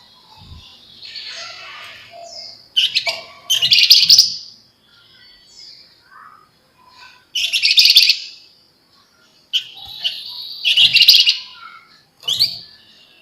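Javan fulvetta (wergan jawa, 'flamboyan') singing in rapid, dense chattering bursts, about four loud ones a few seconds apart, with softer chirps between.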